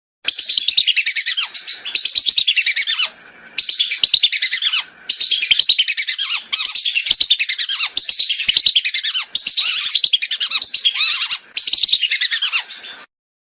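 Lesser whistling ducks calling: dense runs of quick, shrill whistled notes in phrases of about one to one and a half seconds with short breaks between, from a recording played as a hunting lure.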